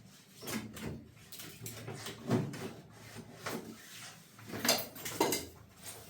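A series of irregular knocks and clatters, like things being handled and bumped, with the loudest about two seconds in and two more near the end.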